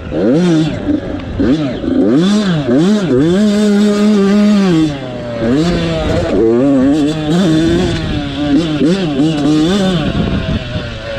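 Dirt bike engine racing on a motocross track, its pitch repeatedly climbing and then dropping as the rider opens the throttle and shifts or backs off, about a dozen times.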